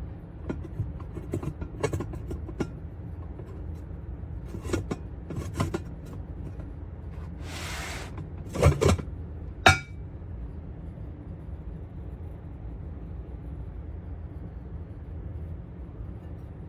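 Ceramic bowls being handled: scattered light knocks, a brief scrape, then two loud clinks a second apart, the second ringing briefly. A steady low rumble sits underneath.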